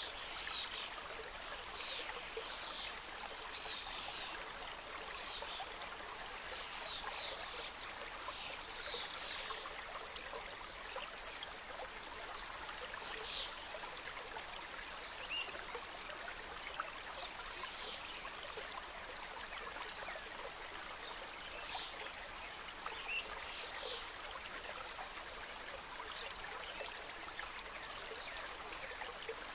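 Mountain stream cascading over rocks: a steady rush of flowing water, with frequent brief splashes and plinks on top.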